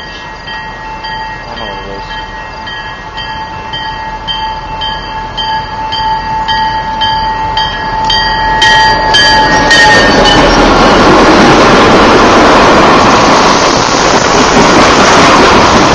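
Canadian Pacific diesel locomotive approaching with its air horn held in one long steady chord, which stops about ten seconds in as the engine draws level. Then the loud rumble of the locomotive and freight cars rolling past on the rails.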